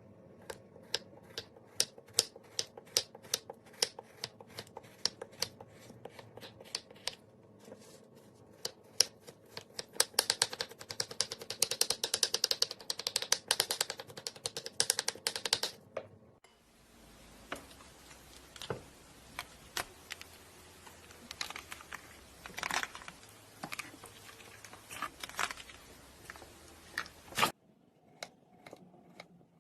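Rapid, irregular sharp clicks and taps, like small hard objects being handled or struck. The sound changes abruptly about sixteen seconds in and again near the end.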